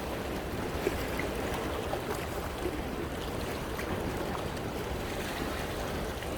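Sea waves washing over coastal rocks: a steady rush of water with small splashes and trickles draining among the rocks.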